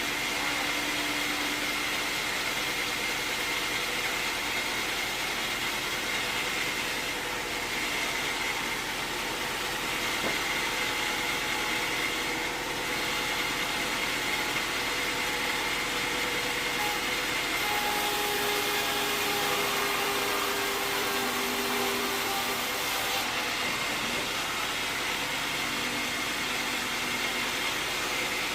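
Sawmill machinery running steadily: an even mechanical noise with a faint steady high whine.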